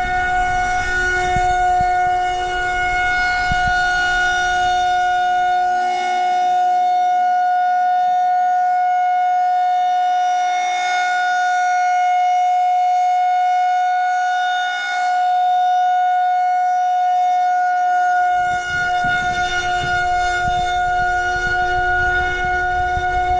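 Outdoor warning siren sounding a steady, unwavering tone with a rich stack of overtones. A low rumble under it drops away for about ten seconds in the middle.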